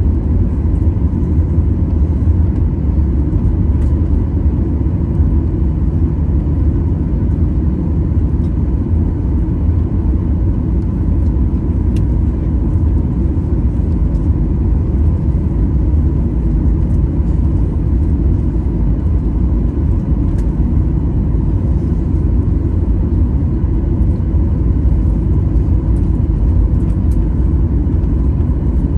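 Steady low rumble of a jet airliner's engines and airflow heard from inside the cabin, with a faint steady whine.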